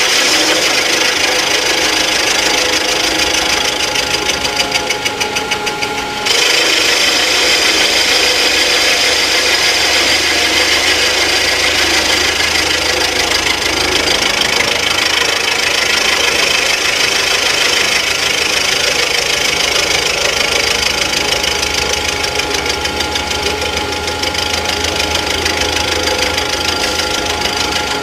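Rottler F90Y CNC machining centre running a cut on an engine block for a water-hole repair: the spindle and cutter give a loud, steady machining noise with a ringing high tone. The sound changes abruptly about six seconds in.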